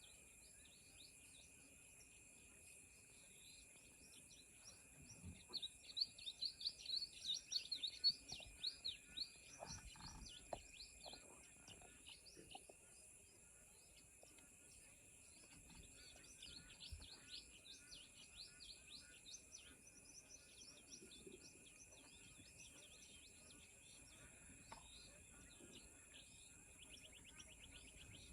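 Faint dusk wetland ambience: small birds chirping in quick rapid runs, loudest about six to eight seconds in and again around sixteen to twenty seconds in, over a steady high-pitched drone of insects.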